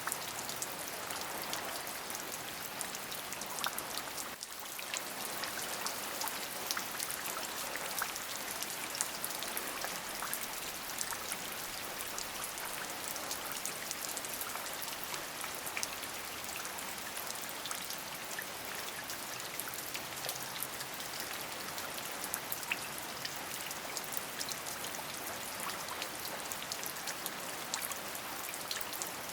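Steady rain: an even hiss with many separate drop ticks, with a brief dip in level about four seconds in.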